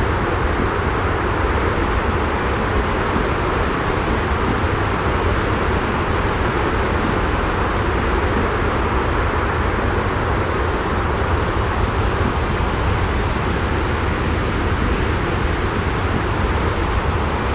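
Steady, unchanging rumbling white noise, heaviest in the low end, with no drops, clicks or other events.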